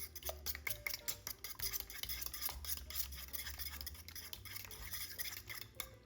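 A kitchen utensil beating rapidly against a mixing bowl, clicking many times a second, as when whisking or stirring a batter.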